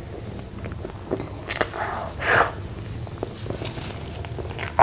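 Close-miked eating of a mouthful of soft red velvet cake with whipped cream: wet, squishy chewing with small mouth clicks, two louder moist bursts about one and a half and two and a half seconds in, and a sharp click near the end.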